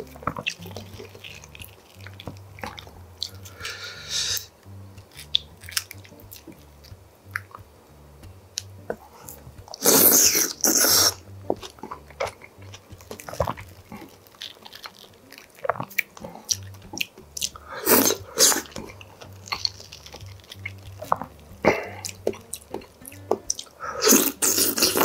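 Close-up eating sounds of ripe mango: wet chewing and smacking with small spoon clicks, and a few louder juicy bursts about ten seconds in, near eighteen seconds and at the end.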